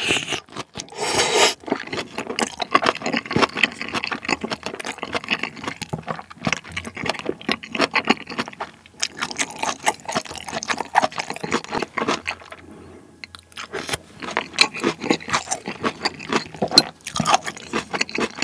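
Close-miked chewing of a mouthful of pork-neck curry rice: wet, crackling mouth sounds in quick irregular clicks, pausing briefly about twelve seconds in. A wooden spoon scrapes in the bowl as the next bite is scooped.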